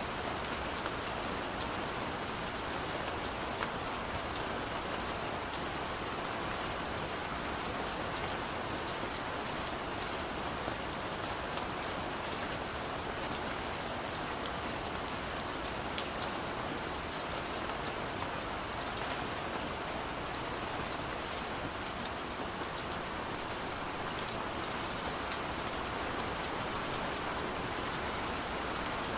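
Heavy rain falling steadily, with scattered sharp drop taps throughout.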